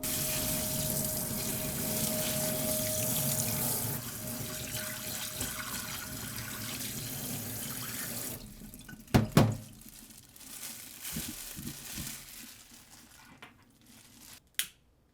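Water running from a tap into a sink for about eight seconds, then shut off. Two sharp knocks follow, then a few light knocks and a click near the end.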